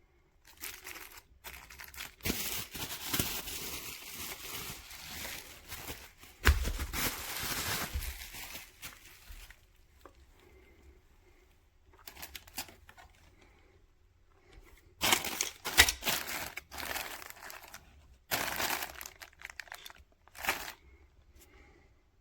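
Crinkling and tearing of packaging being handled, in irregular bursts separated by short quiet gaps.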